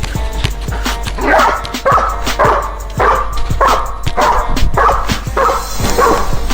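Music with a steady beat, with a dog barking about twice a second over it from about a second in.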